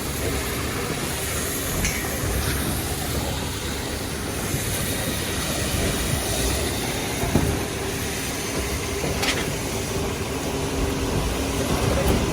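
Heavy diesel machinery of a concrete mixer truck and concrete boom pump truck running steadily during a concrete pour, with a few sharp clanks.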